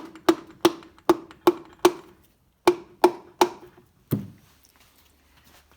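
Piston being tapped down through a ring compressor into the cylinder bore: about ten sharp knocks, roughly three a second, each with a brief ringing, with a short pause in the middle and a duller last knock.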